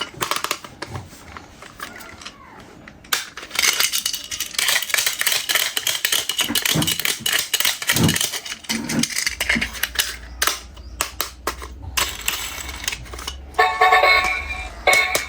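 Rapid irregular clicking and rattling of toys being handled and unboxed, with a tune starting near the end.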